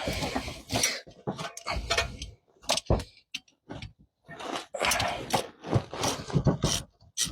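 Close-up scraping, rubbing and clicking from hand tools and parts being handled while a spark plug goes into the engine. The noises come in short, irregular bursts with brief pauses between.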